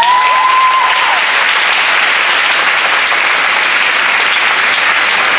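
A hall full of schoolgirls applauding, the steady clapping of many hands. One voice gives a rising whoop at the start that fades about a second in.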